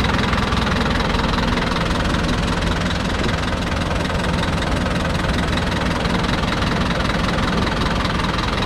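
Deutz F4L514/5 tractor's air-cooled four-cylinder diesel engine running steadily at a low, even speed.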